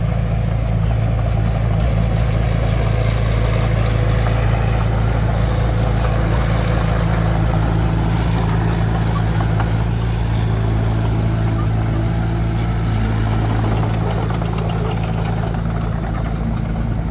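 A heavy vehicle's engine running steadily at an even speed, with a deep, unchanging hum and no revving.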